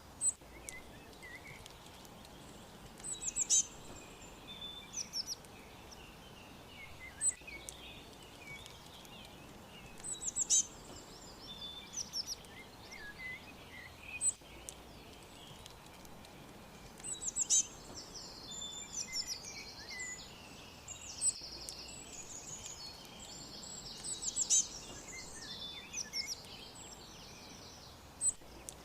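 Several small birds chirping and trilling in short calls, over a steady faint background hiss; the calls grow busier and overlap for a stretch past the middle.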